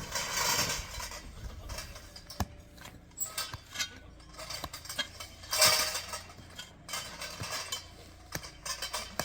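Scattered clinks and knocks of hard objects being handled, with louder bursts of clatter about half a second in and again near six seconds.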